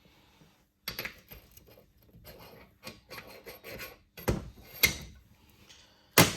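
Brake caliper slider pins being lightly sanded by hand with oiled 1000-grit sandpaper: irregular rubbing strokes, with a few sharp knocks about four seconds in and near the end.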